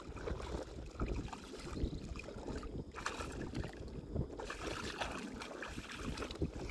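Shallow water sloshing and splashing, with wind buffeting the microphone and scattered small knocks.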